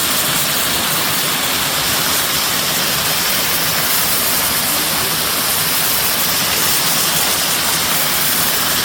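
Waterfall: a steady rushing of falling water, loud and unbroken.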